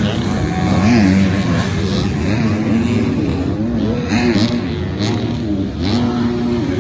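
Several 250cc four-stroke motocross bikes on track, their engines revving up and down through throttle changes and gear shifts, with the notes of different bikes overlapping.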